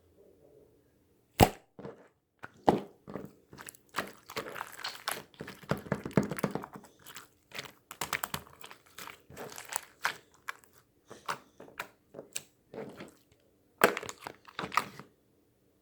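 Irregular close-up clicks, taps and crackles, with one sharp crack about a second and a half in and a denser burst near the end.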